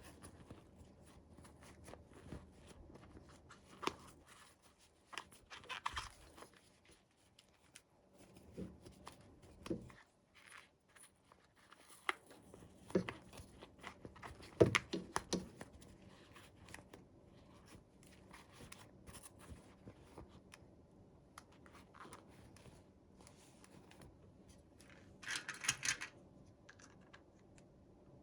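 Faint sounds of toy packaging being handled and opened: scattered clicks and taps of small plastic pieces with short crinkles, and a brief rip near the end.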